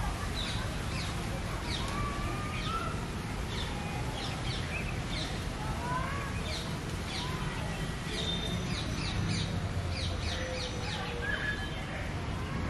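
Wild birds chirping and calling, many short high chirps with a few slurred whistles, over a steady low background noise.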